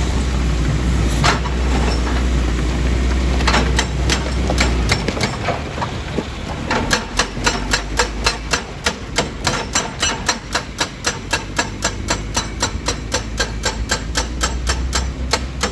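Heavy quarry machinery running with a deep engine hum and a few scattered knocks, then, from about six and a half seconds in, a steady rapid knocking at about four to five blows a second.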